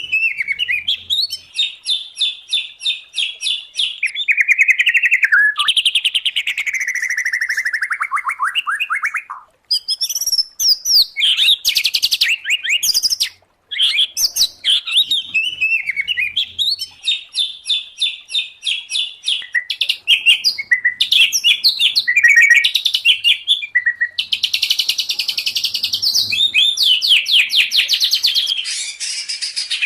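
Songbirds singing in a loud, continuous, varied stream of rapid trills, repeated chips and sliding whistled phrases, broken by two short gaps about a third of the way through.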